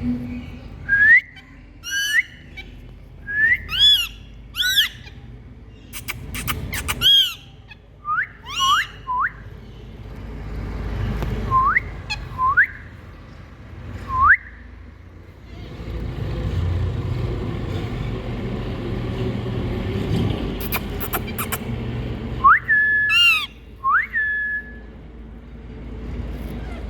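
Indian green parrots calling: short sharp rising whistles and harsh screeches in quick bursts, with a gap of several seconds in the middle and a few more calls near the end. A low rumble sits under the calls, strongest in the middle gap.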